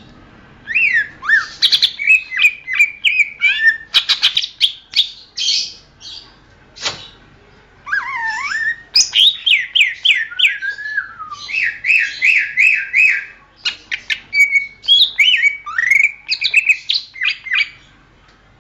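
Cucak ijo (green leafbird) singing a loud, varied song of sweeping whistled notes and rapid repeated chattering figures, in two long phrases with a short pause about seven seconds in.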